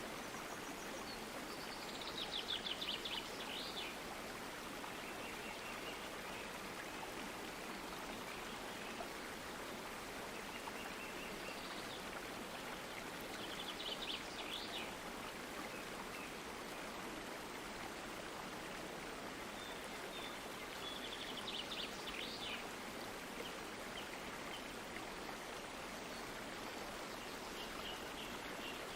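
Stream water flowing steadily. A bird gives a short rapid trill three times, near the start, about halfway through and a little later.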